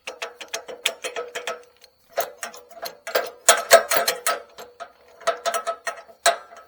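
A metal ratchet clicking rapidly with a ringing metallic tone, in three bursts of strokes with short pauses between.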